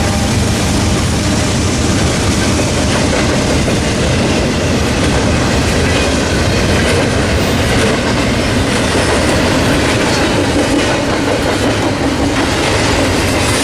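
Freight stack train rolling past close by: a loud, steady rumble of steel wheels on the rails with clickety-clack.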